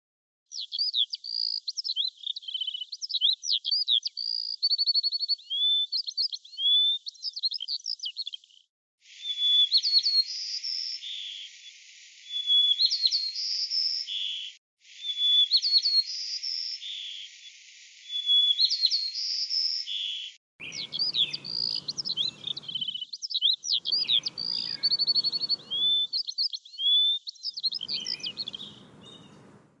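Songbird singing: quick, varied chirps, whistles and short trills, in several clips cut together with brief gaps between them.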